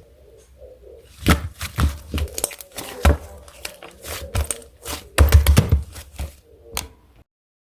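Close-up handling noise: an irregular run of sharp clicks, taps and crinkling right at the microphone, stopping abruptly about seven seconds in.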